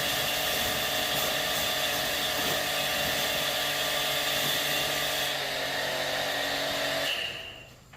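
An electric power tool running steadily at high speed, switched off about seven seconds in and winding down.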